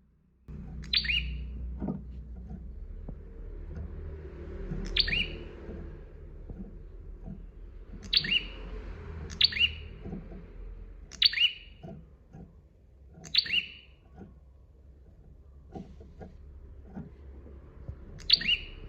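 Prenjak (a prinia) singing in short, sharp, loud chirps, about seven of them at uneven intervals, over a steady low background hum.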